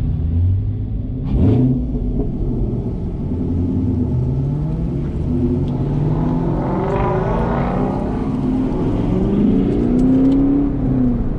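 Chevrolet Camaro's V8 heard from inside the cabin, pulling away and accelerating, its revs rising in several sweeps: about a second in, midway, and again near the end.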